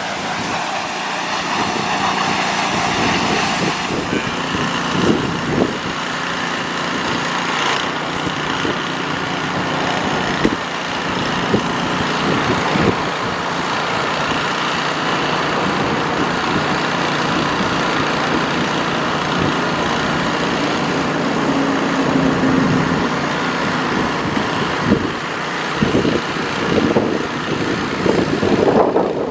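Air blower running steadily with a whirring whine, blowing water off a freshly washed truck.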